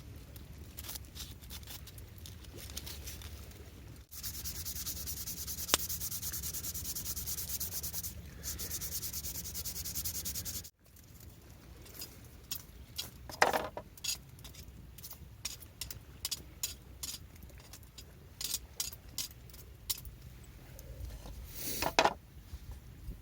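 Steady abrasive rubbing on wood, as in hand sanding, in several short stretches. In the later part it gives way to scattered sharp clicks and taps.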